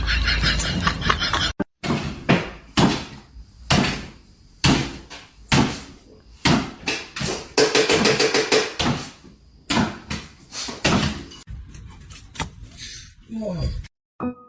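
A series of irregular knocks and thumps, a few strikes a second, from several short clips cut together.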